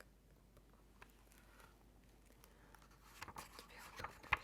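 Close-miked ASMR handling sounds: a faint rustle for about three seconds, then a quick run of small clicks and taps, with the sharpest click just before the end.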